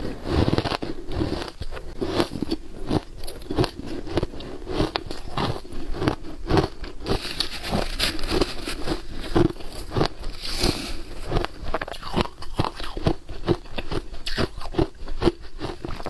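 Shaved ice being bitten and chewed in the mouth, a dense, irregular run of crisp crunches.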